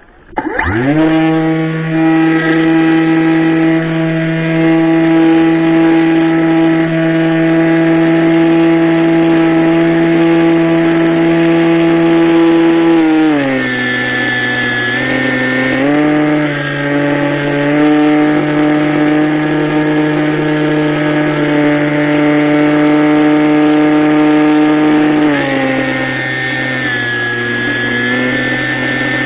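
Radio-controlled model airplane engine starting or throttling up sharply, then running with a steady high-pitched note. Its pitch drops a step about halfway through, wavers, and drops again near the end as the throttle is eased.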